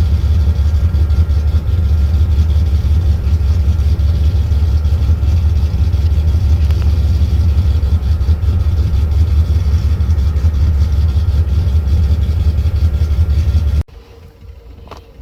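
Cammed Dodge Ram pickup's V8 engine running steadily with a deep exhaust note, warming up after a cold start in sub-zero temperatures. It cuts off abruptly near the end.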